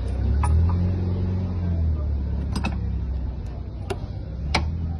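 Steady low engine drone, with a few sharp clicks over it, two together about halfway through and two more towards the end.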